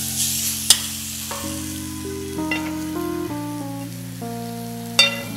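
Mutton vindaloo sizzling faintly in a pan under soft background music of held notes that change in steps. A sharp metal clank about a second in and a louder one near the end, as pans are handled on the range.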